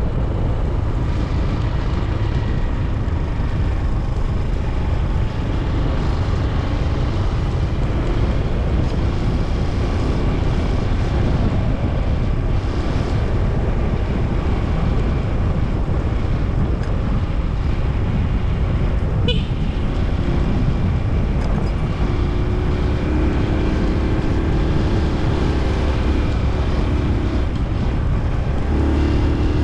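Honda TMX 125 Alpha's single-cylinder engine running on the move under a steady rush of wind on the microphone. A steadier engine note comes up about three-quarters of the way through, and there is one short sharp sound a little before it.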